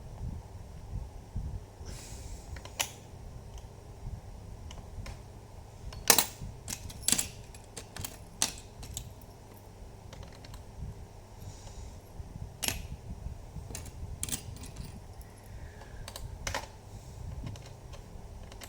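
Irregular sharp clicks and scrapes of a screwdriver working at a stuck screw in a laptop's plastic casing, over low handling rumble. The loudest clicks cluster about six to eight seconds in.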